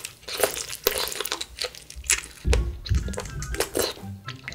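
Close-miked chewing of raw abalone: crunchy, wet bites and mastication, with many sharp crackles.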